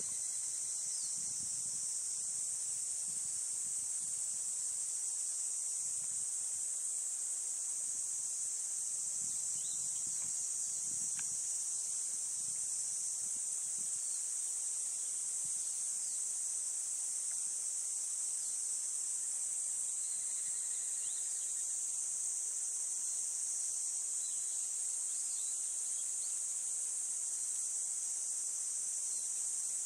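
Steady, high-pitched insect chorus, unbroken and even in level, with a few faint short chirps mixed in.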